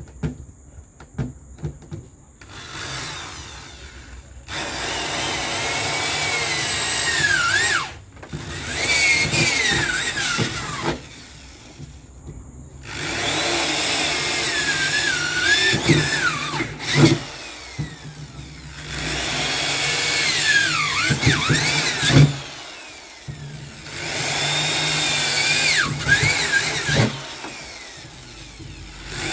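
Electric drill boring holes into the wall of a freezer, running in repeated bursts of a few seconds each, its pitch sagging and recovering as the bit bites.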